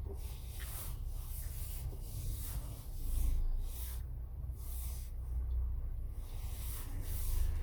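Camper van driving: a steady low rumble of road noise, with a rustling hiss that comes and goes.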